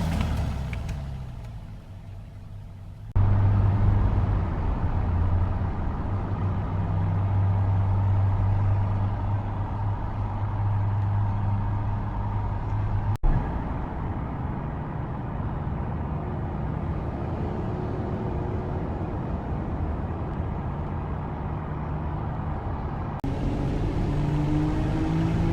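BMW M3's twin-turbo inline-six running in a string of edited driving clips. A rev fades out over the first few seconds, then there is a steady engine drone at cruising revs, broken by a cut with a click about 13 seconds in. Near the end the revs rise as the car accelerates.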